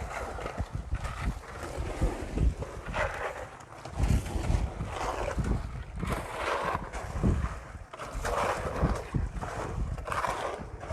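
Wind buffeting the phone's microphone in irregular low rumbling gusts, over indistinct outdoor noise.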